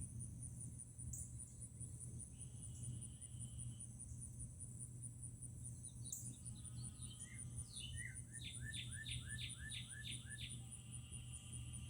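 A songbird singing outdoors: a short buzzy note, then, most of the way through, a quick run of about eight repeated sweeping notes. Under it runs a steady high insect trill.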